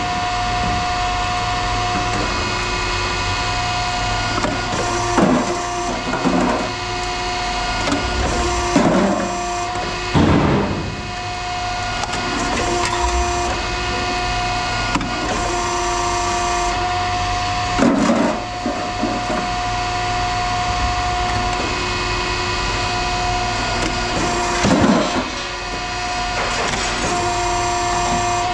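Scrap metal being handled, with about eight loud knocks and clatters, the biggest around ten, eighteen and twenty-five seconds in, over a steady machine hum.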